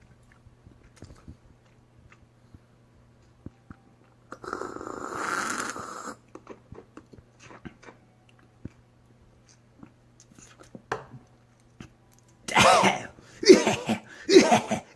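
A person chewing charcoal-grilled pork belly bossam with faint scattered mouth clicks. A short breathy rush of noise comes about four seconds in, and loud vocal sounds come near the end.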